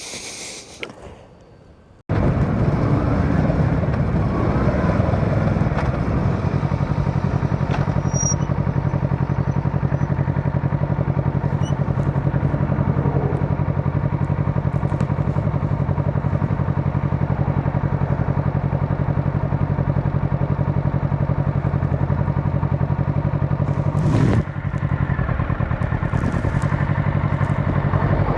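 Motorcycle engine running steadily while the bike is ridden. It cuts in abruptly about two seconds in after a quiet start, and there is a brief knock about three-quarters of the way through.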